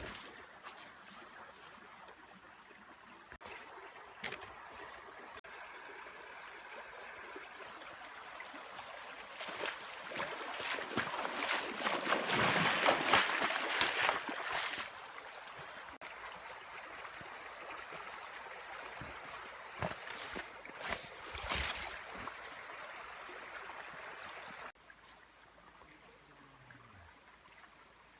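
Running water trickling and sloshing, louder for a few seconds about halfway through, with scattered short clicks.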